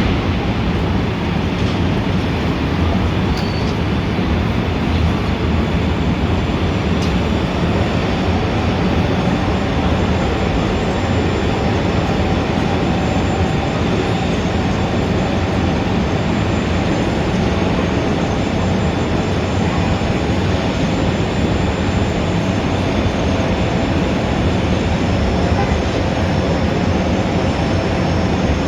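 Steady, dense city street traffic: a continuous mass of engine and tyre noise with no single vehicle standing out.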